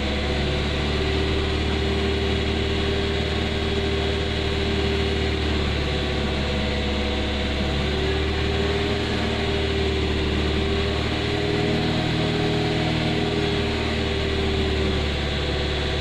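A car engine idling steadily, heard from inside the cabin, while it warms toward the temperature at which the electric radiator fan should switch on.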